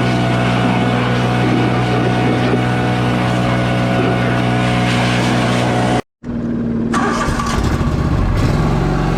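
Engine running at a steady speed, then cut off abruptly about six seconds in and replaced by a different engine sound that varies in pitch and rises.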